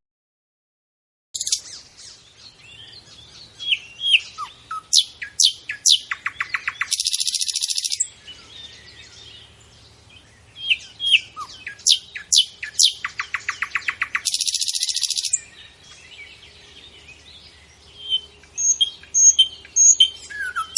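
Small birds chirping: sharp high chirps, quick falling whistles, rapid trills and a harsh buzzy call about a second long. The same sequence comes twice, with more chirps near the end.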